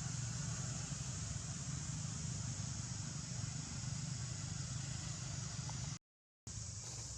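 Steady outdoor background noise, a low hum under a constant high hiss, cut by a half-second dropout of total silence about six seconds in.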